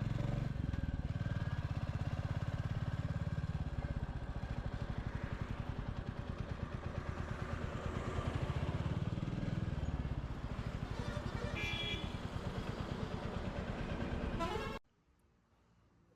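Royal Enfield Classic 350's single-cylinder engine running with its even, pulsing beat, rising and falling in pitch twice. A vehicle horn honks briefly near the end, and the sound cuts off abruptly a little before the end.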